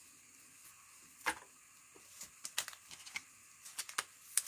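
Trading cards and packs being handled on a table: scattered light clicks and ticks as cards are shuffled and set down, with a sharper click about a second in and another near the end.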